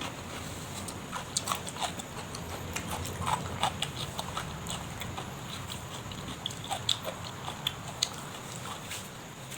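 Close-miked chewing and mouth smacking of a person eating: an irregular run of short, wet clicks and smacks.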